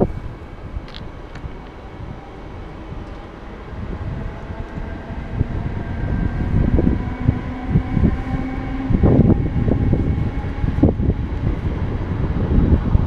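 Electric double-deck NS train running on the station tracks: a low rumble with a faint steady motor whine that grows louder through the middle. Wind buffets the microphone.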